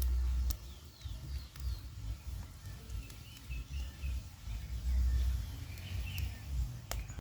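Faint, scattered bird chirps over a low, uneven rumble that swells near the start and again about five seconds in.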